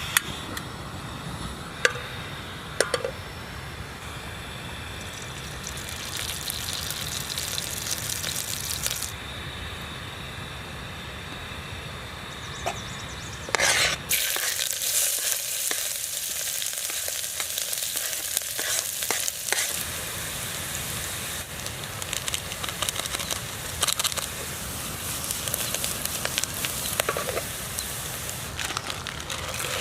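Food sizzling as it fries in a pan, with stirring and a few sharp utensil clinks in the first few seconds.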